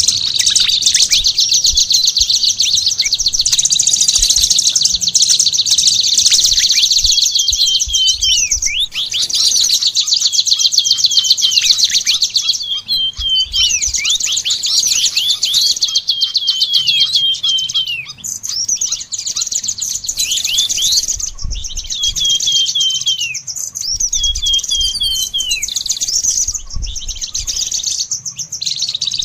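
Songbird singing continuously: fast, high trilling phrases packed with rapid notes, mixed with runs of short down-slurred whistles, in bursts with brief pauses between them.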